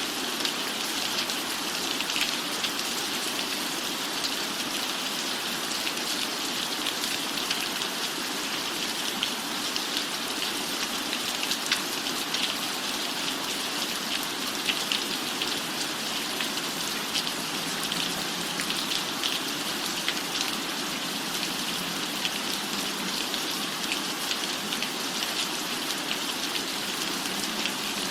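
Steady rain on a cabin roof: an even hiss with a dense patter of separate drops ticking through it.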